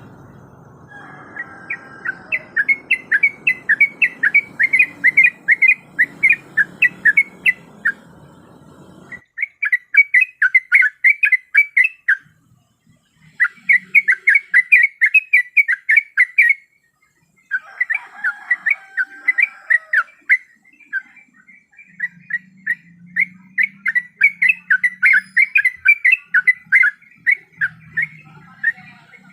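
Sooty-headed bulbul (trucuk) calling in fast runs of short chirping notes, several a second, played as a bird-trapping lure recording. The runs come in bursts with two short breaks, and a background hum drops out abruptly about nine seconds in, where the recording is edited.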